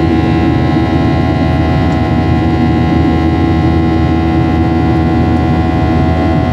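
Steady cabin noise of an airliner in flight: an even rush of engine and airflow noise with a few constant humming tones, unchanged throughout.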